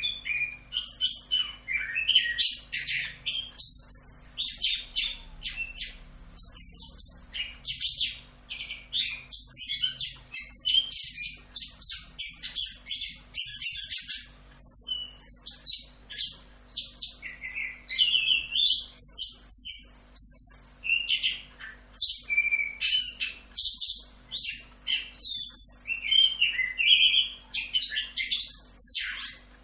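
Chestnut-capped thrush (anis kembang) singing a long, unbroken run of fast, varied phrases of whistles, trills and chatter, the continuous 'ngerol' song that bird keepers call rock'n roll.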